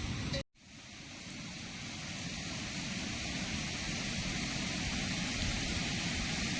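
Steady storm noise of wind and rain, a hiss with a low rumble, fading up just after a momentary cut to silence about half a second in.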